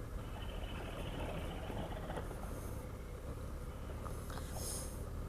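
Motorcycle engine running steadily at low revs, a low even rumble, as the bike picks its way slowly along a rough track.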